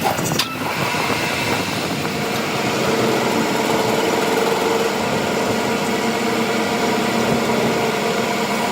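A machine running steadily with an even, pitched hum, after a short clatter at the start.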